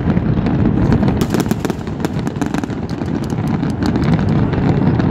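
Fireworks going off: a dense, continuous run of bangs and crackles over a steady low rumble.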